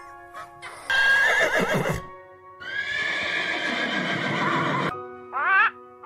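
Donkey braying: two long calls, the first about a second in and the second from about two and a half seconds, over background music.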